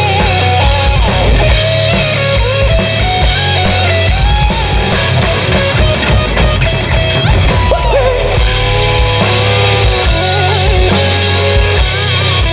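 Live rock band playing an instrumental passage: a lead guitar solo with bending, sliding notes over drums and bass.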